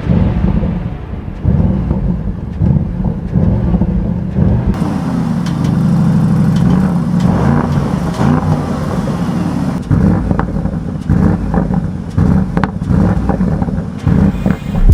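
Audi RS Q8's twin-turbocharged 4.0-litre V8 and its exhaust, revving with the pitch rising and falling, and a run of short, sharp crackles in the second half.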